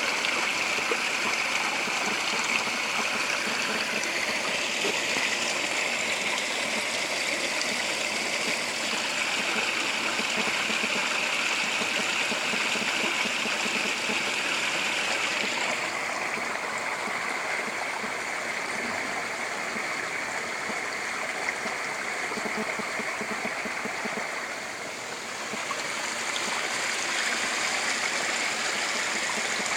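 Spring water pouring steadily and splashing, a continuous rushing of the spring's outflow; its brighter, hissing part fades about halfway through.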